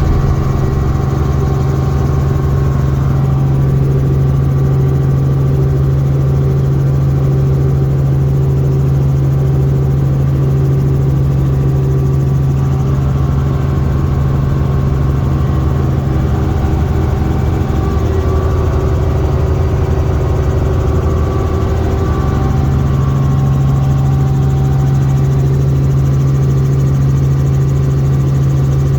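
Helicopter running steadily: a loud, constant low drone with a hum, which wavers briefly about two-thirds of the way through.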